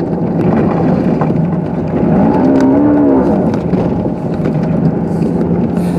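Car driving through deep snow on an unplowed road: a steady engine hum under a dense rushing noise from the tyres and body ploughing through snow. About two seconds in, a brief moaning tone rises and falls over about a second.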